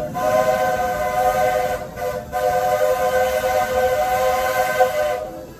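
Steam locomotive's chime whistle blowing, several notes sounding at once as one chord. A long blast breaks off near 2 s for a brief toot, then a second long blast ends a little after 5 s. This is the whistle that the Roy O. Disney carries, taken from the Roger E. Broggie engine.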